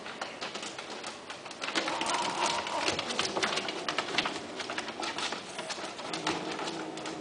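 Low cooing bird calls, held for about a second at a time, with many small clicks and rustles throughout.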